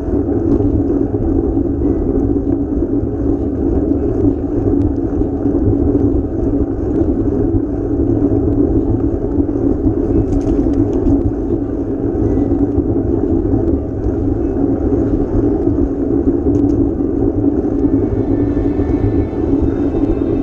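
Steady rumble and rushing noise of a ride in motion, the kind of wind and road noise picked up by a microphone on a moving bike.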